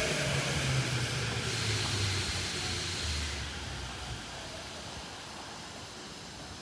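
Tokyo Metro 15000 series electric train braking to a stop at a platform: its motor whine falls in pitch and fades over about four seconds, leaving a steady, quieter background noise.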